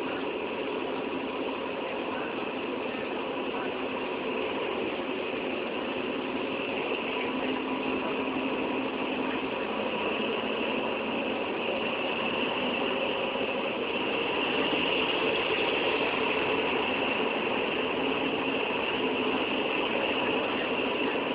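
A train running with a steady mechanical drone of engine and rattle, growing slightly louder through the stretch.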